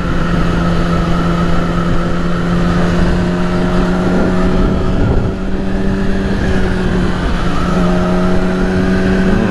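Yamaha R6 inline-four sport-bike engine running at steady revs while cruising, with wind rush over the rider's microphone.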